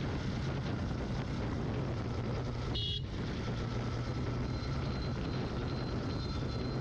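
Yamaha FZ V3's single-cylinder engine running steadily on the motorcycle being ridden, with a brief high-pitched beep about three seconds in.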